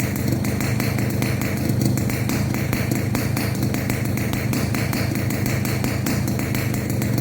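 Yamaha RX-King two-stroke single running steadily through its stock exhaust fitted with a brass silencer insert. A fast, crisp crackle of ticks rides over a steady low drone.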